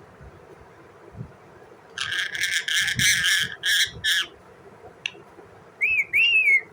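Pet parrot calling: a run of harsh, rasping chatter starting about two seconds in and lasting about two seconds, then two short rising-and-falling whistles near the end.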